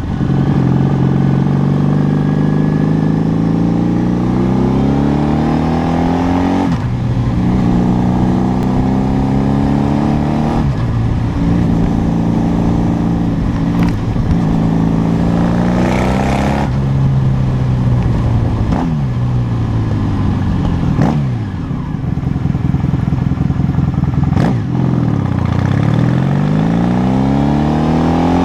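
A vehicle engine accelerating through the gears: its pitch climbs and then drops sharply at each of about four shifts. Later it slows with the pitch falling, then picks up and rises again near the end.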